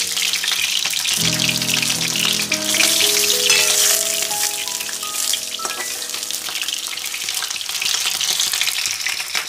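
Chicken pieces sizzling as they fry in hot mustard oil in a kadai, with a steady hiss throughout. Background music of held notes plays over it from about a second in to about six seconds.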